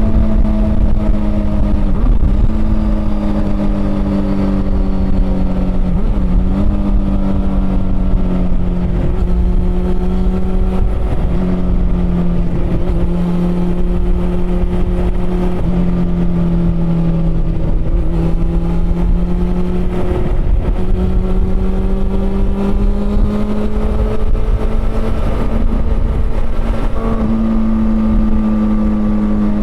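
Honda CB400 Super Four's inline-four engine running under way at a fairly steady pitch, with brief breaks in the note every few seconds. The pitch sags slightly through the middle and rises a little near the end, over a heavy low rumble.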